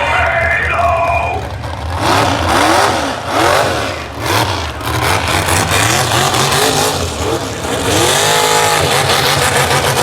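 Monster truck engine revving hard in repeated quick rises and falls, then held high for about a second near the end, over a heavy low rumble.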